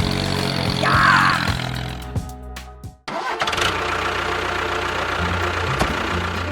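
Engine of a miniature tractor running steadily. About three seconds in it fades out and cuts off abruptly, then starts again as a steady drone.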